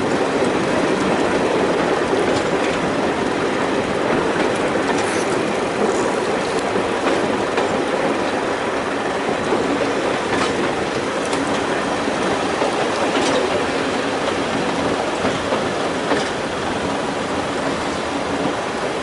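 Heritage diesel multiple unit running along the line, heard from on board: a steady rumble of engine and wheels on the rails, with now and then a sharp click as the wheels pass over rail joints.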